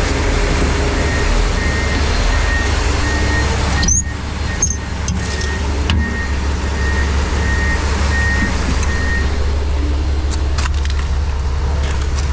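Heavy diesel engine running steadily, with a reversing alarm beeping about twice a second from a front-end loader working the load; the beeping stops near the end.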